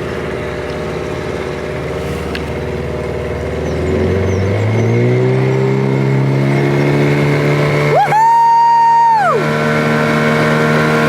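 Speedboat outboard motor running, its pitch climbing from about four seconds in as the boat picks up speed, then holding steady. About eight seconds in, a loud clear tone rises, holds for about a second and falls away over the engine.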